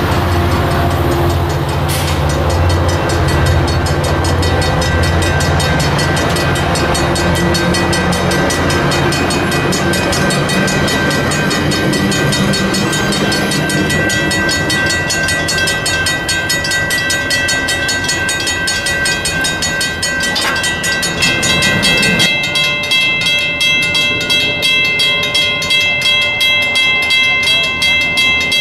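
Metrolink commuter train of bilevel coaches passing and running away on the rails, the diesel locomotive's low hum fading over the first few seconds and leaving the rumble of the wheels. About two-thirds of the way in, a grade crossing bell rings steadily, about two strokes a second.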